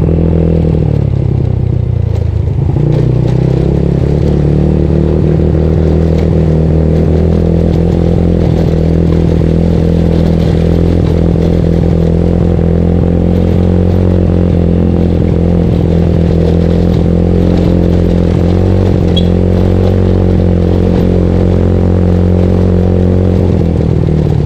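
Yamaha Mio scooter with a bored-up engine running while being ridden. Its pitch drops about a second in as the throttle eases, climbs back about three seconds in, then holds fairly steady.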